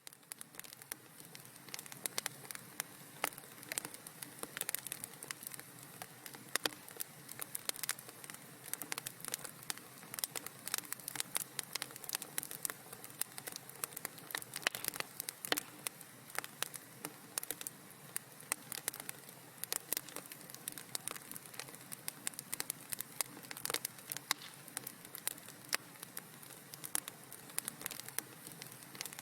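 Wood fire in a fireplace burning and crackling: a constant stream of sharp, irregular pops and snaps over a soft low hiss of flames.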